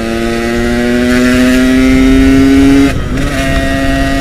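Yamaha RX-King's 135cc two-stroke single-cylinder engine pulling in gear, its note climbing slowly, then a short break about three seconds in, as at a gear change, before it runs on steady at a slightly lower pitch.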